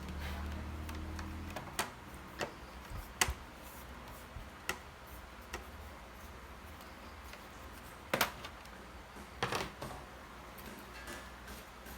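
A low hum that stops about a second in, then scattered sharp clicks and light knocks at irregular intervals, a few of them louder, near 3 s, 8 s and 9.5 s.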